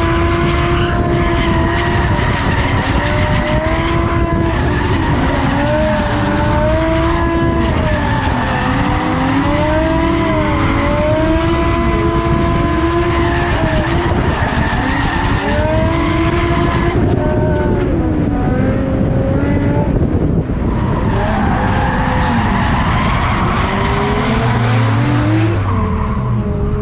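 The BMW M5's V10 engine revs up and down over and over while it drifts, with its tyres skidding and squealing. The whine and wind noise of the FPV quadcopter carrying the camera are mixed in.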